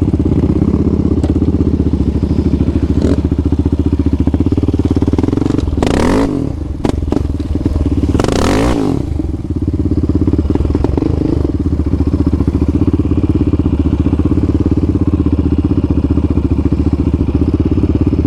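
Quad engine running steadily. Around six and again around eight and a half seconds in, another machine revs hard and goes past, its note rising and then falling.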